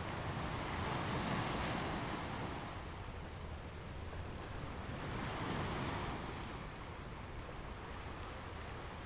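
Ocean surf: a steady wash of waves that swells twice, about a second in and again about five seconds in, as waves roll in.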